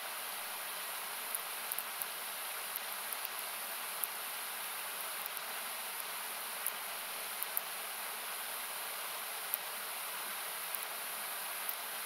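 Steady rush of a nearby river, equalised down by the uploader so that it comes through as a hiss, with the sharp, scattered crackles and pops of a wood campfire over it, about one or two a second at irregular intervals.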